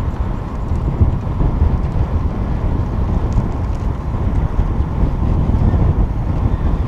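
Wind buffeting the microphone during a bike ride: a steady, heavy low rumble with a fainter hiss above it.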